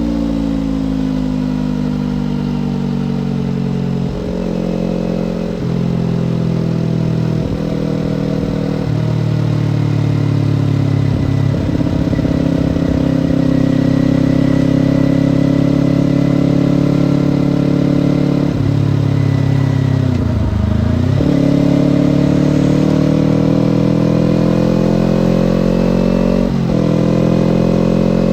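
Kawasaki Ninja parallel-twin motorcycle engine heard on the move. It slows at first, then runs through several gear changes and holds a steady cruise. About twenty seconds in it drops briefly, then revs up, changes gear near the end and revs up again.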